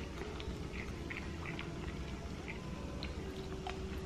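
Close-miked chewing and mouth sounds of a person eating: small, soft clicks every few tenths of a second over a low steady hum.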